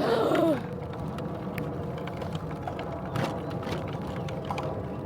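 Bicycle riding along, its freewheel hub ticking over a steady rush of road and wind noise. There is a short wavering squeal in the first half second.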